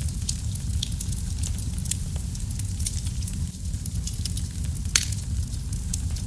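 Wood fire burning in a fireplace: a steady low rumble of the flames with irregular sharp crackles and pops, one louder pop about five seconds in.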